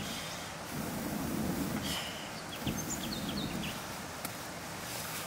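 Open-air ambience with a few short high bird chirps about halfway through, over two low muffled swells of noise.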